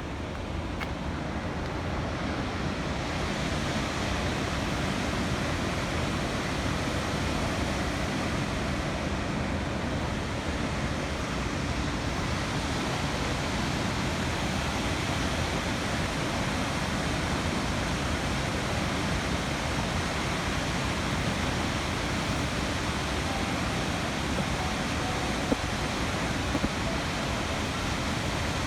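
Dam water rushing in a steady, even noise, with two brief faint knocks near the end.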